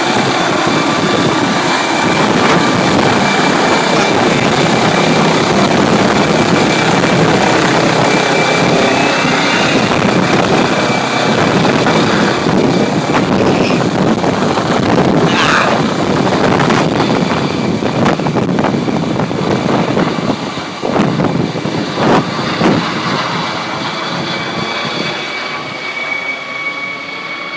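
Helicopter taking off: a loud, steady rush of rotor and engine noise that begins to fade about twenty seconds in as it flies away.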